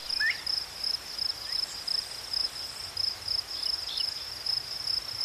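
Steady, evenly pulsed high-pitched trill of insects, with a few faint short bird chirps about a second apart near the start and again about four seconds in.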